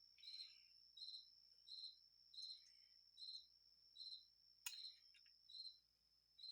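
Faint cricket chirping at an even pace, about one chirp every 0.7 seconds, over a steady high-pitched tone. A single light click sounds about two-thirds of the way through.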